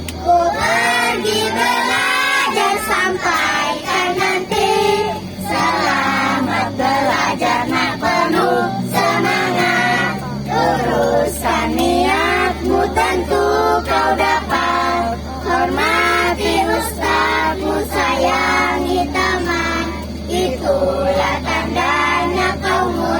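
A group of schoolchildren singing a song together, voices in unison, over a steady low hum from the bus.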